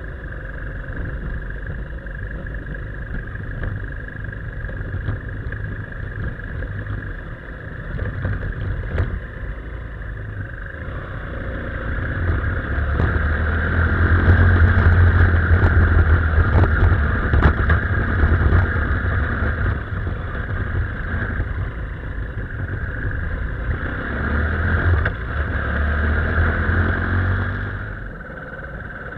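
BMW F800R's parallel-twin engine running as the motorcycle rides along, with tyre and road noise. The engine grows louder through the middle as it pulls harder, then eases off near the end.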